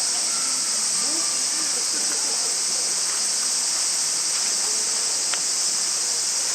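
A steady, unbroken high-pitched chorus of insects, such as crickets or cicadas, with a single faint click a little after five seconds in.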